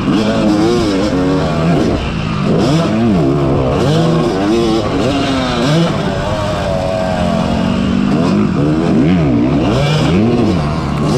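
Yamaha YZ250 two-stroke motocross bike engine revving up and down over and over, the pitch climbing and dropping every second or so as the throttle is worked.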